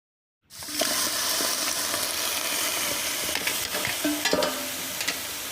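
Food frying in hot oil in a pan, sizzling loudly, with a ladle stirring and scraping against the metal now and then. It starts abruptly about half a second in.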